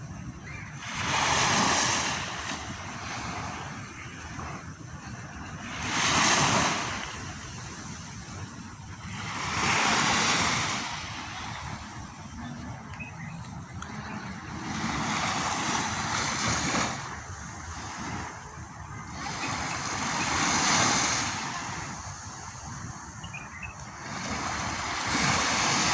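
Arabian Gulf waves breaking. Six washes of surf swell and fade, about every four to five seconds.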